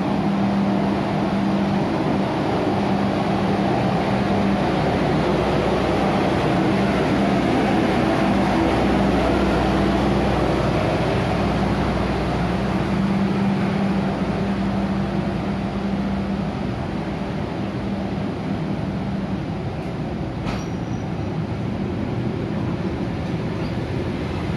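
Indonesian passenger train at a platform, a steady mechanical drone with a low hum, easing slightly in the second half as the coaches start to slide slowly past.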